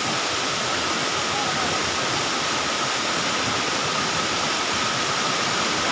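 Water pouring over a wide waterfall: a loud, steady, even rush with no change in level.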